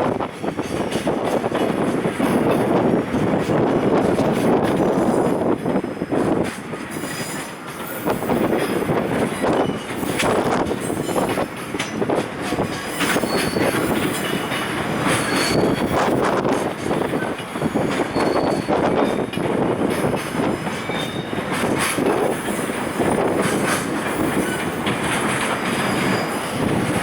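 Container wagons of a freight train rolling past, their wheels clacking over rail joints, with short high wheel squeals scattered throughout.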